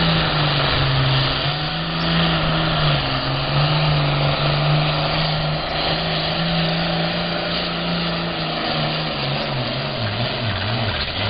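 Super farm class tractor-pull diesel farm tractor running hard at a steady, high engine note under the load of the sled. Near the end the engine pitch sags and wavers.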